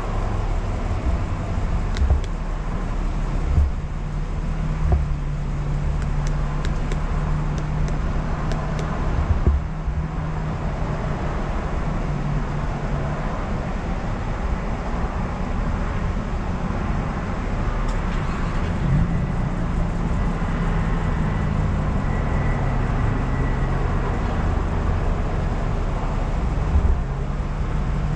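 A vehicle engine idling close by, a low steady hum whose pitch shifts a little, over a background of traffic noise. A few light clicks come between about six and nine seconds in.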